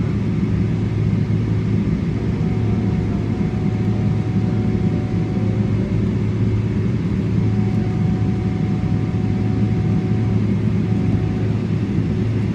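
Steady low engine drone heard from inside a moving vehicle, even and unbroken, with a deep hum and faint steady higher tones over it.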